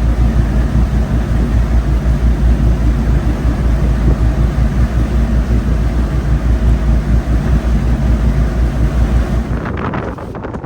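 Boat motor running steadily at cruising speed, a deep low hum with wind buffeting the microphone. Just before the end the motor's hum drops away and the sound thins to mostly wind noise.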